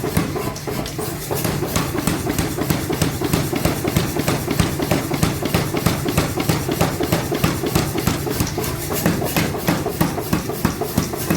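Steel being forged with fast, even hammer blows, about four or five a second, over a steady machine hum.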